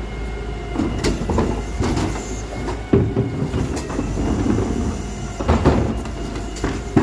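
Garbage truck working: a steady engine rumble with a faint whine, broken by several metal clanks and knocks.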